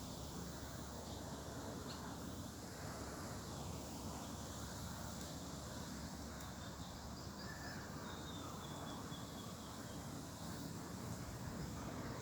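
Steady outdoor background noise with a few faint bird calls.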